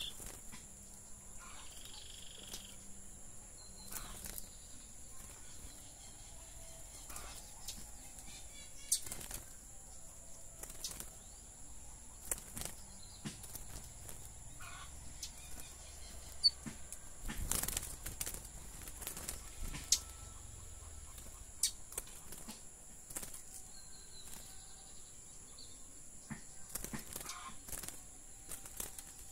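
Caged lined seedeater (bigodinho) hopping and fluttering about its wire cage: scattered wing flaps and light clicks of feet on perches and bars, with a louder burst of flapping about halfway through and a brief faint chirp near the start.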